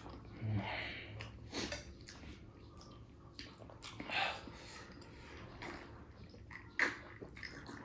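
Faint chewing and biting of spicy laphing and noodles, heard as scattered short, irregular mouth smacks and a couple of sharp clicks.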